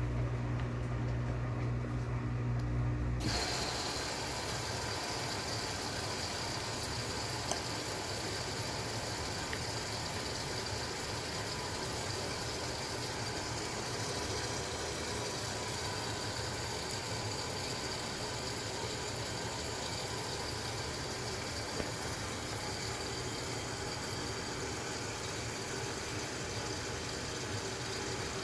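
Maytag washing machine running: a steady low motor hum that changes about three seconds in to an even rushing, churning noise, which then runs on steadily.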